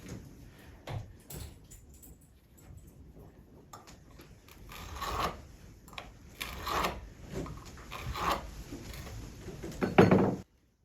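Wooden boards being handled, with knocks and scrapes of wood on wood and a heavier thump near the end, then the sound cuts off abruptly.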